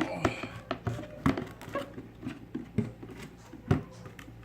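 Handling noises: irregular clicks and knocks of objects being moved and set down, with a few sharper knocks.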